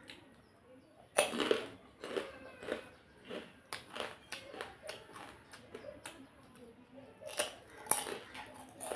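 Close-miked eating sounds: chewing and biting, with short sharp crunches coming at irregular intervals, the loudest about a second in and near the end.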